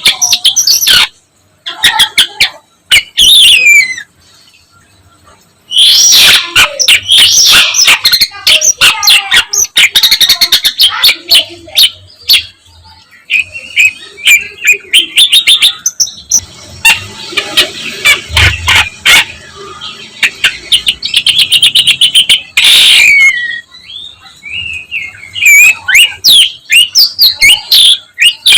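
Long-tailed shrike (condet/pentet) singing loudly in rapid, varied phrases of chirps, trills and harsh notes, rich in mimicked calls of other birds; the song breaks off for a moment about four seconds in.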